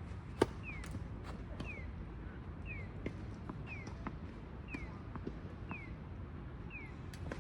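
Sharp knocks of tennis balls being struck, the loudest about half a second in, with several fainter ones after. A short, high, falling chirp repeats about once a second throughout.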